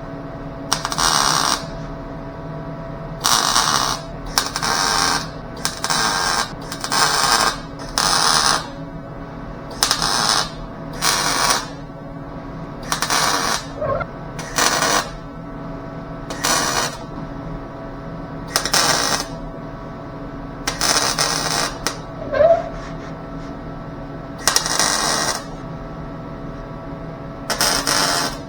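Sheet-metal stitch welding on a car body panel: a run of short welds, about sixteen in all, each lasting half a second to a second with pauses of one to two seconds between, laid in brief passes so the thin panel does not blow through.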